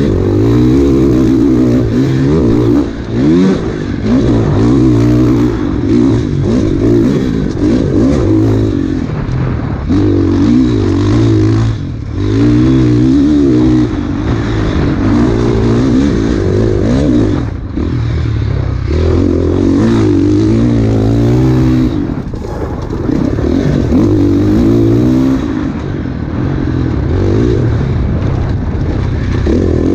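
Enduro dirt bike engine revving hard and falling off again and again as the throttle is opened and closed through a trail section, with brief drops in level and rattle and clatter from the bike over rough ground.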